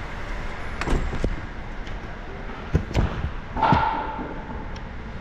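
A few knocks and thuds, then a louder metallic clank about three-quarters of the way through that rings briefly, over a steady background hum.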